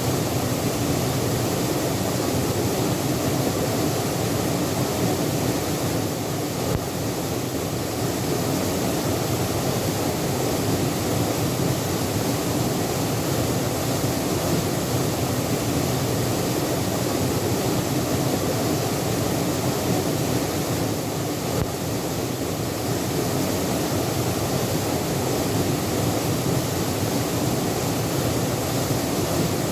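Steady, loud rush of water falling at a waterfall, with no change throughout.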